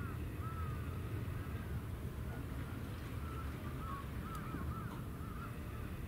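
Birds calling over and over in short arched cries, the notes coming shorter and quicker in the second half, over a steady low rumble of wind.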